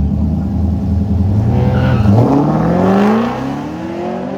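A car engine held at a loud steady note, then revving up and accelerating hard, its pitch climbing steeply from about a second and a half in. It fades about three seconds in as the car pulls away.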